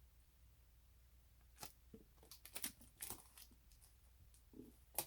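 Packaging being handled: quiet, scattered crinkles and clicks of plastic and card starting about one and a half seconds in, with a sharp click near the end.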